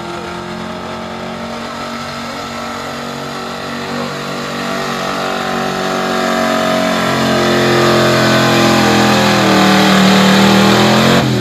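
Modified gas street pulling truck's engine held at high revs under load as it pulls the weight sled, growing steadily louder. Right at the end the pitch drops sharply as the throttle comes off.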